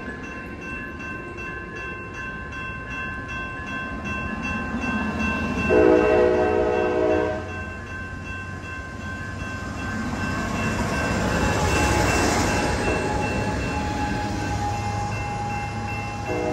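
Train horn sounding a chord of several tones in a blast of about a second and a half about six seconds in, and again right at the end. In between, a train passes, its rumble and rush swelling to a peak around twelve seconds in and easing off.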